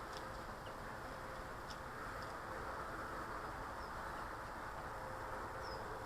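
Steady outdoor background noise, with a few faint, short high chirps from small garden birds scattered through it.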